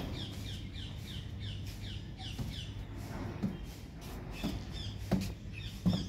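A small bird chirping: a quick run of short, falling chirps, about three a second, thinning out in the second half. A few short knocks come in among them, from a hen pecking at a cardboard box.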